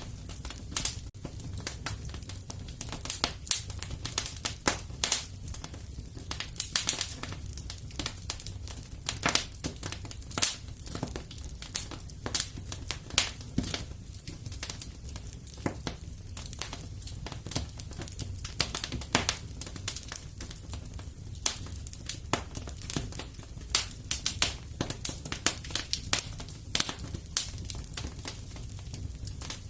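Fire crackling in a fireplace, with frequent irregular sharp pops and snaps over a steady low rumble.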